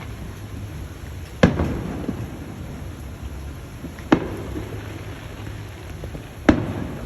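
Fireworks shells bursting three times a couple of seconds apart, each a sharp boom followed by a rolling rumble.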